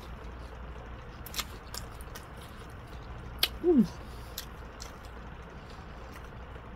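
Close-up mouth sounds of a person eating a fried chicken wing: chewing and lip smacks with scattered small sharp clicks. About three and a half seconds in there is a short vocal hum falling in pitch.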